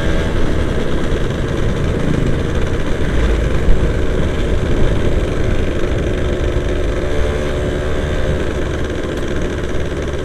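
Yamaha F1ZR two-stroke motorcycle engine running steadily while the bike is ridden, under a dense low rumble of wind and road, with a brief low thump about three to four seconds in.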